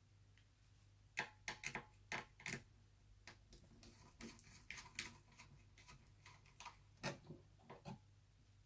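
Irregular small clicks and taps of a screwdriver and screws working on a laptop's motherboard screws, in a run starting about a second in.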